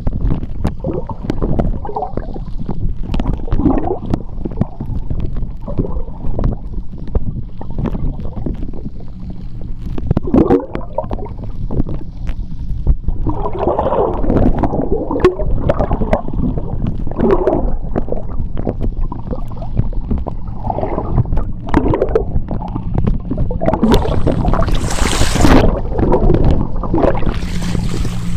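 Seawater churning and gurgling around a submerged microphone, heard underwater in a fast tidal current, with a steady low hum beneath. Twice near the end a louder, hissing rush of bubbles comes through.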